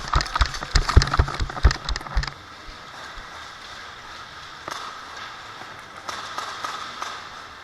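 A rapid, irregular run of sharp knocks and thumps for about two seconds, then only a few faint clicks over a low background.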